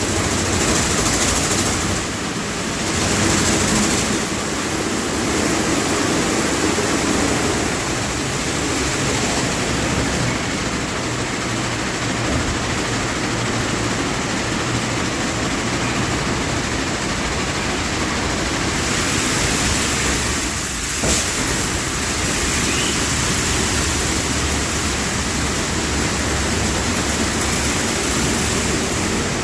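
Automatic car wash running: a steady rush of spraying water and wash machinery. A brief knock comes about two-thirds of the way through.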